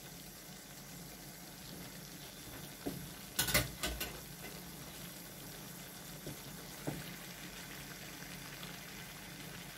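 Chicken, chicken liver and vegetables simmering in sauce in a wok, a steady low sizzle, with a brief clatter about three and a half seconds in.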